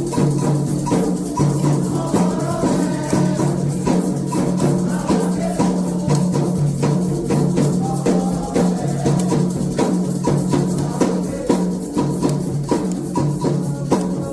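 Candomblé ritual percussion: atabaque hand drums playing a dense, steady rhythm with a shaken rattle.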